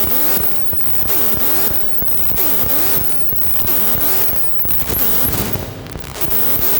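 Experimental electronic music from hardware synthesizers: a dense, noisy, crackling texture of rapid clicks, with a pitch that repeatedly dips and rises again about once a second.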